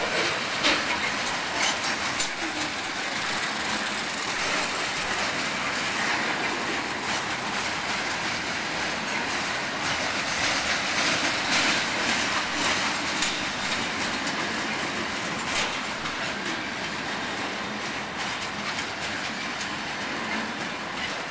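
Railroad cars rolling past, a steady rumble with irregular clicks and clacks of the wheels over the rail joints.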